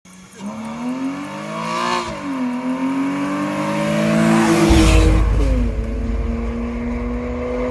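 A car accelerating hard toward and past the camera, its engine pitch climbing, dropping at a gear change about two seconds in, then climbing again to a rush of noise as it goes by. After that a steady deep drone takes over.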